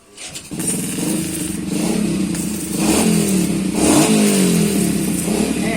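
Motorcycle engine running and being revved up and down a few times.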